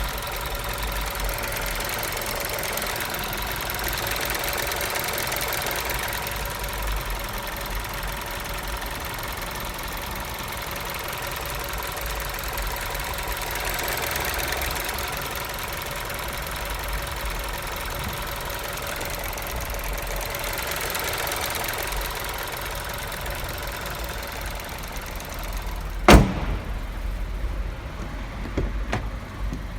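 Audi A3 8V 1.4 TFSI turbocharged four-cylinder petrol engine idling warm, with the loud noise it has recently begun to make once warmed up. The drone swells and eases every several seconds. About three-quarters of the way through there is one sharp knock, after which the hissy part of the noise stops and only a low rumble is left.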